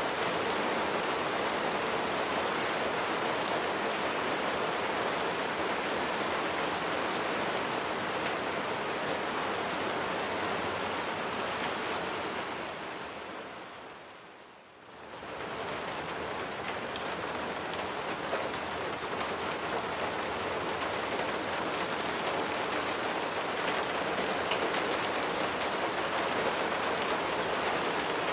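Steady rain falling on a surface, a dense even patter. About halfway through it fades smoothly down to faint, then comes back up to full within a second or so, like a join between loops of the recording.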